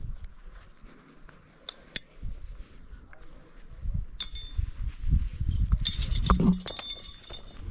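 Metal climbing hardware, carabiners and rappel gear on a harness, clinking and jangling during a rappel, over low bumps and rustling. The clinking is busiest in the last couple of seconds.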